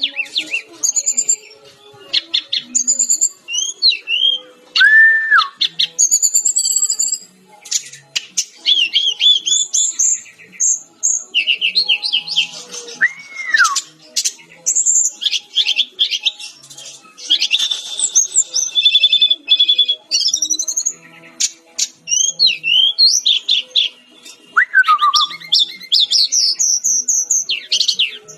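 Fulvous-chested jungle flycatcher (sikatan rimba dada coklat) singing a fast, varied song of chirps, trills and whistled notes, with a few slurred whistles that arch and fall in pitch.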